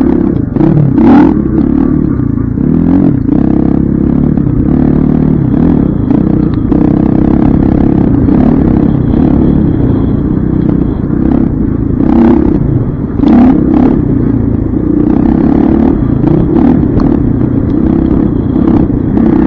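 Dirt bike engine running and revving up and down as the bike is ridden, with a few sharp knocks and rattles along the way.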